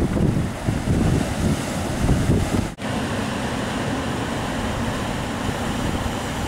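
Wind buffeting the microphone over rushing water, with gusty rumbles for the first few seconds. It cuts out for an instant a little before halfway, then carries on as a steadier rushing hiss.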